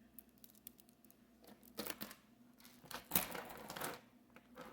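Costume jewelry being handled and untangled by hand: beads and chains clicking and rustling in short bursts, loudest about two seconds and three seconds in.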